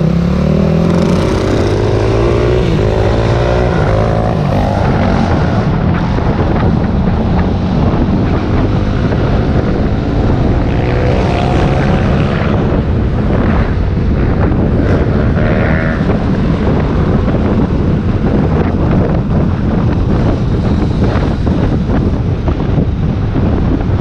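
Steady wind rumble on the microphone of a moving rider, mixed with vehicle noise. Faint sliding tones come and go over it.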